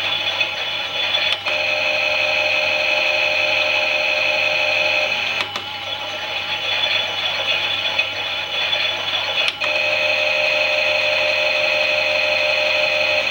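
Small electric motor of a Klein toy Miele washing machine whining as it turns the drum. A click and a change in the whine come about every four seconds, alternating between a steady tone and a wavering one.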